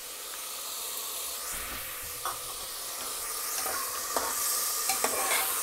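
Mutton and spice masala sizzling in hot oil in an aluminium pressure cooker pot: a steady frying hiss that grows a little louder. A metal spoon stirring the meat ticks and scrapes against the pot several times in the second half.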